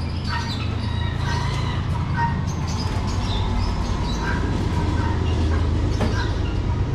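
Many caged birds chirping in short, high calls over a steady low rumble.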